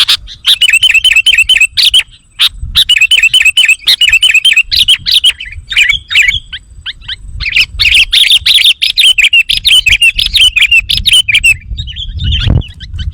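Sooty-headed bulbul (kutilang) lure call: loud, rapid chirping in long quick runs with a couple of short pauses. About a second before the end the chirping stops and one sound slides down steeply in pitch.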